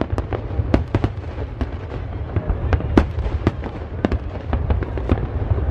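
Fireworks exploding in quick, irregular succession: a stream of sharp cracks and bangs, several a second, over a constant low rumble of continuous bursts.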